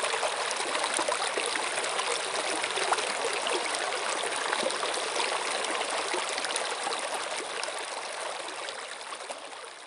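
Running water flowing and trickling steadily, fading out over the last few seconds.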